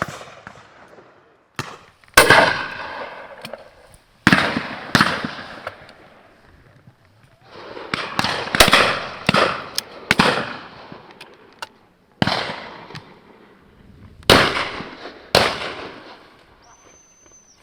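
Shotguns firing on a driven game shoot: a long run of single reports, some in quick pairs, several each few seconds, each one sharp and followed by a long echoing tail.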